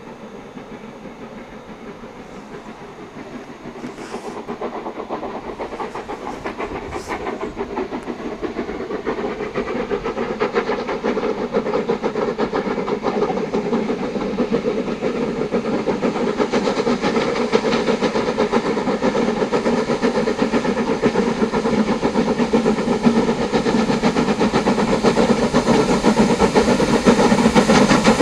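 LMS Black 5 steam locomotive hauling a train, approaching and growing steadily louder, with rapid exhaust beats and wheel clatter.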